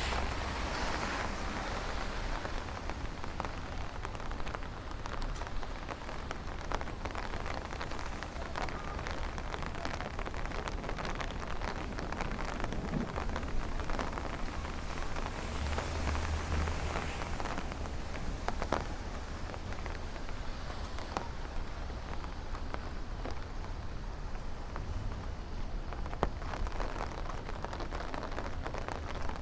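Steady rain falling on a city street, with many sharp close drop ticks over the hiss and a low rumble beneath.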